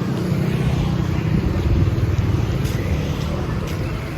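A motor vehicle passing close by on a city street, its engine a low rumble that grows louder to about two seconds in and then fades.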